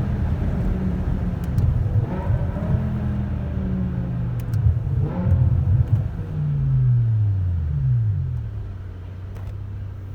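BMW E60 M5's V10 engine running through an IPE aftermarket exhaust, its note shifting up and down. About six to eight seconds in the pitch falls away, and it settles to a steady, quieter idle.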